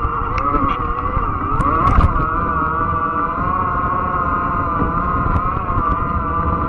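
Electric fat-tire bike riding with its motor whining steadily, the pitch dipping and rising in the first couple of seconds, over a heavy low rumble of wind and tyres on the trail. A few sharp clicks come in the first two seconds.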